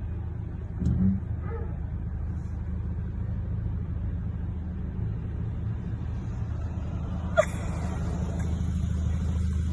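Steady low rumble of a running vehicle, with a brief louder bump about a second in and a sharp click about seven and a half seconds in.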